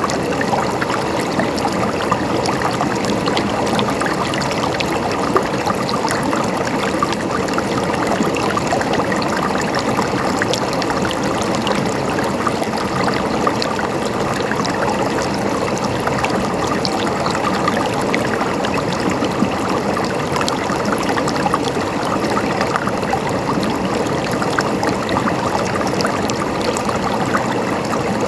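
Stream water flowing and gurgling steadily over stones, with many small splashes and trickles.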